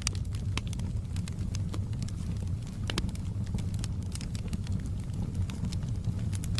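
Wood fire burning in a fireplace, crackling with irregular sharp pops of varying loudness, one louder pop about three seconds in, over a steady low rumble.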